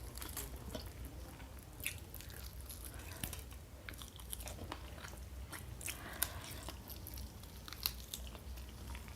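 Close-miked mouth sounds of someone chewing and crunching food, with scattered crisp clicks and crackles at an uneven pace.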